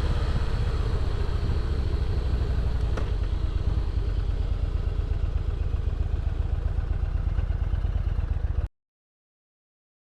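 Motorcycle running while riding, its engine rumble mixed with heavy wind noise on the camera microphone, steady throughout. Near the end the sound cuts off suddenly to dead silence.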